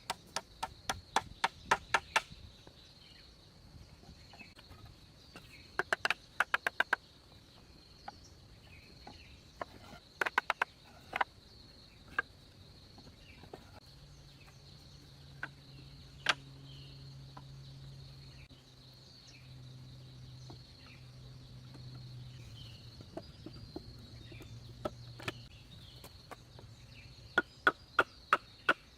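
Bursts of sharp, quick strikes of a hand tool on wood, several blows in a row at about four or five a second, with single knocks between. A steady high insect buzz runs underneath.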